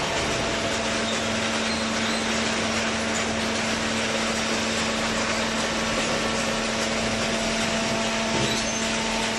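Open-ended horizontal hydraulic cardboard baler running, a steady mechanical noise with a constant hum throughout.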